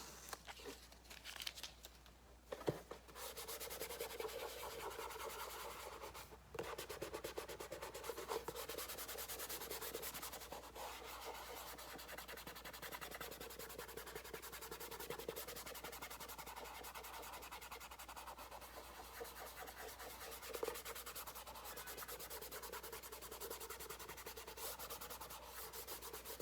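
Steady hand rubbing on a painted motorcycle side panel: a continuous scratchy scrubbing made of quick, short strokes. It starts in earnest about three seconds in, with a short pause a few seconds later.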